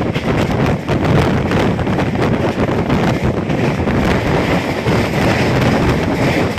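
Loud wind buffeting the microphone over a dense, even rushing rumble, unbroken throughout.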